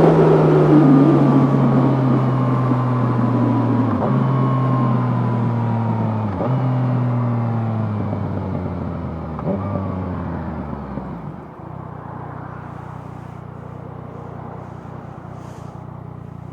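Yamaha FZ-09's three-cylinder engine slowing down on the overrun, its note falling steadily and stepping back up a little with each of three downshifts, then settling into a steady idle about eleven seconds in.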